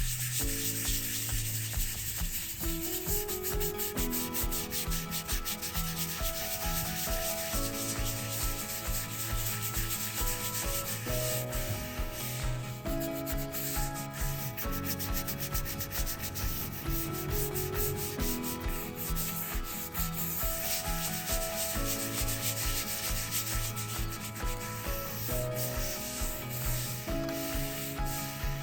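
A scrubbing brush scouring a concrete bird bath with bleach solution, in rapid repeated strokes over a background melody.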